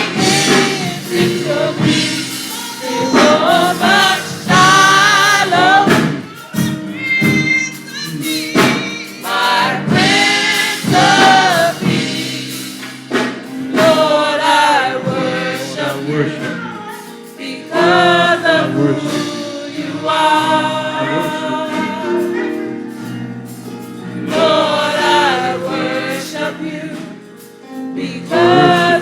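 Gospel choir and congregation singing a slow praise song over a steady accompaniment of sustained chords, with a solo voice leading.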